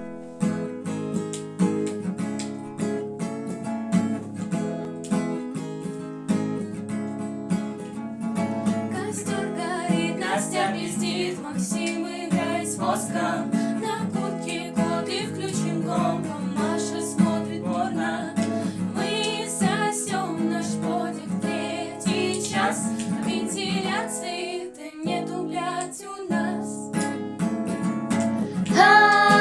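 Acoustic guitar strumming and picking chords, with a voice singing over parts of it; the singing grows louder right at the end.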